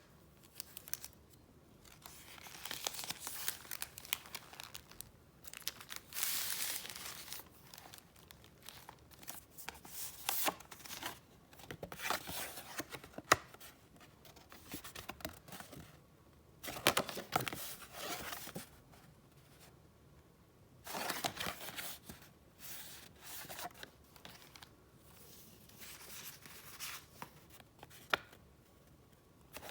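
Paper and wrapping handled up close: bursts of rustling, a second or two each, every few seconds, with a few sharp clicks.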